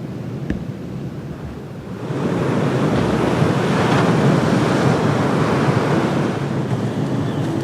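Rushing noise of surf and wind, swelling about two seconds in and then holding steady, with a faint single tick shortly after the start.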